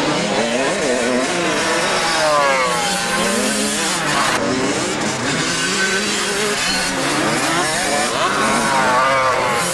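Several motocross bikes riding a track, their engines revving up and down over and over, with the rising and falling notes overlapping.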